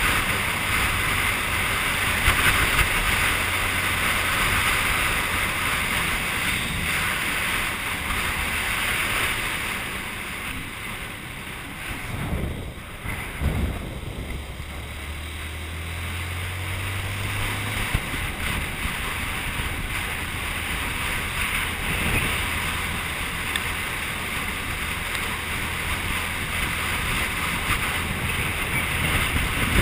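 Honda CG125's 125cc single-cylinder four-stroke engine running while riding, under heavy wind noise on the microphone. About halfway through, the engine eases off briefly, then pulls again.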